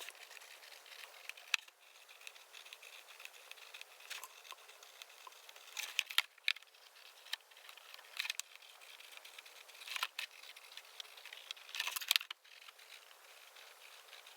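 Pen strokes scratching on a plastic milk carton in short irregular bursts as leaves are drawn on, with a few sharp clicks from the pen and carton.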